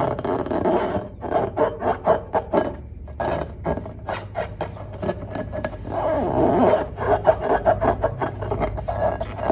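Hands working glossy slime: squishing and stretching it with a dense rustle and rapid sticky clicks and pops.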